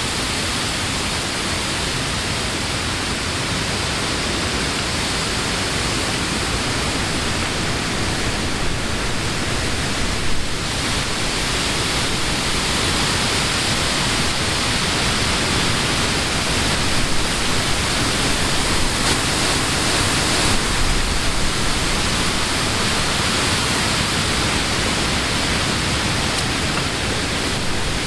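Steady wind blowing through tree leaves, a dense even rustle that swells a little now and then.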